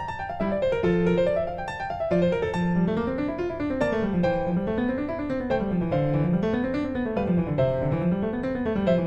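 Background piano music, with runs of notes rolling up and down about once a second.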